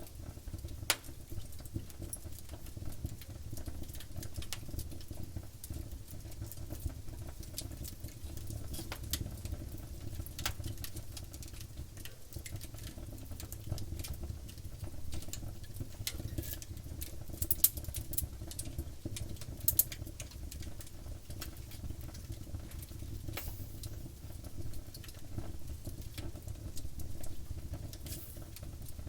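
Wood fire burning, crackling and popping irregularly over a steady low rumble, with a couple of louder snaps past the middle.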